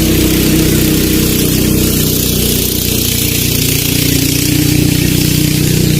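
A steady, engine-like drone that holds an even pitch, with a constant hiss over it.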